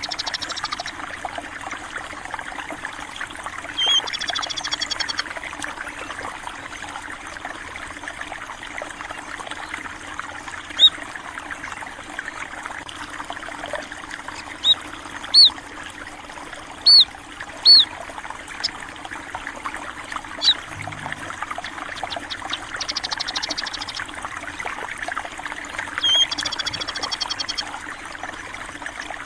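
Water flowing steadily, with small birds chirping over it: a few quick trills and a scatter of short, sharp single chirps.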